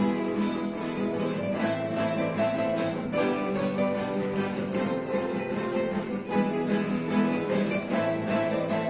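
Ensemble of acoustic guitars playing a Spanish dance, quick plucked and strummed notes in several parts.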